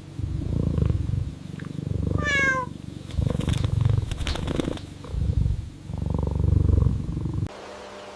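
A cat purring: a low rumble that swells and fades with each breath, about five times, then stops abruptly near the end. A brief high falling chirp sounds about two seconds in.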